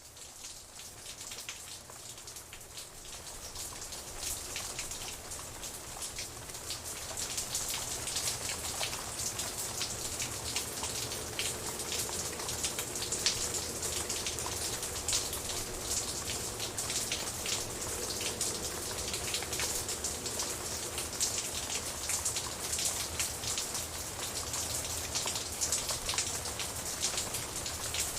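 Steady rain with many individual drops pattering on a surface, fading in over the first few seconds and then holding steady.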